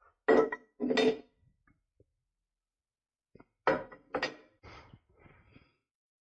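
Metal clanks of steel lift-arm height adapters and lift pads being set and locked in place. There are two ringing clinks near the start, two more sharp clanks about halfway, and then a short rattle.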